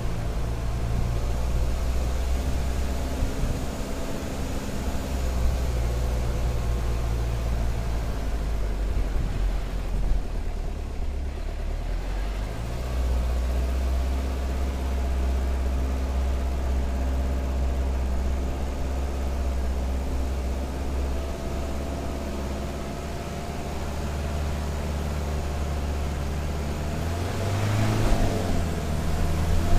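Jeep Cherokee XJ's engine running under load as it climbs a dirt track, a steady low drone that drops and then picks up again about twelve seconds in. Near the end the engine briefly revs up and falls back.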